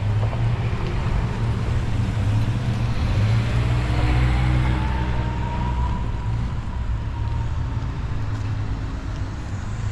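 A car engine runs steadily with a low hum. Another vehicle passes by in the middle, swelling and fading with a faint whine.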